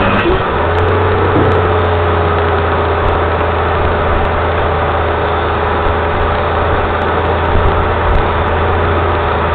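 A motor or engine running steadily with a low hum, its level even and unchanging.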